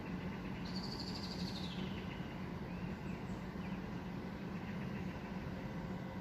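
A bird calls once, a high note gliding down in pitch over about a second, followed by a few faint chirps, over a steady low hum.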